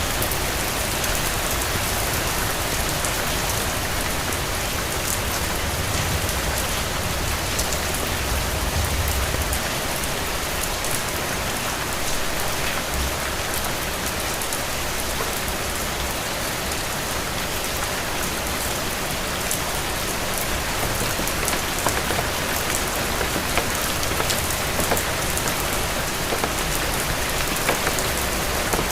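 Steady rain falling on a hard surface, an even hiss with individual drops ticking, over a low rumble that swells now and then.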